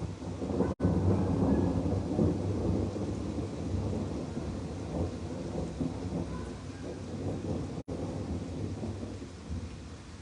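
A long roll of thunder. It builds to its loudest within the first couple of seconds, then rumbles on deep and uneven and slowly fades over about nine seconds.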